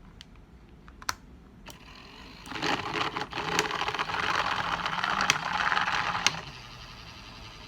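Small motorised beauty-blender washer spinning its water-filled bowl with a whirring rattle for about four seconds, then cutting off suddenly; a few light clicks come before it starts.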